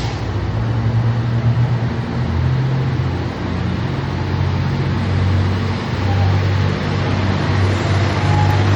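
Diesel engine of a Kiya 141 series track-inspection car working under load as the train pulls away, a steady low engine note that shifts pitch a few times.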